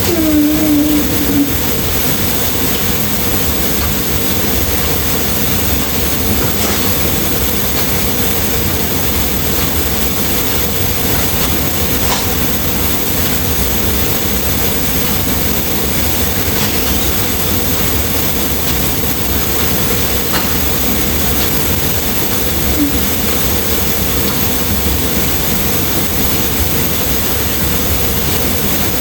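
Steady, loud rumble and hiss with a constant hum, broken by a few faint ticks.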